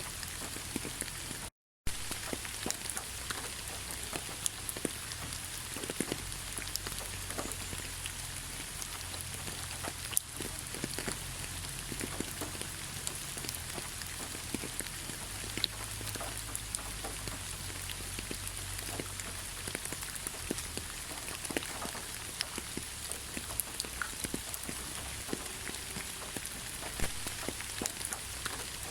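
Heavy rain falling steadily: a continuous hiss with many individual drops ticking and splashing through it. The sound cuts out completely for a moment about a second and a half in.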